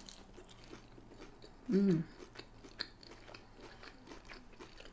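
Close-up chewing of a breaded mozzarella stick: soft crunching and wet mouth clicks, with a short hummed "mm" about two seconds in.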